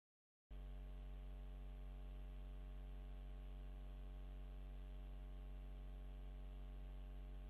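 Steady low electrical hum with many overtones and faint hiss. It starts abruptly about half a second in, after dead silence, and stays perfectly even.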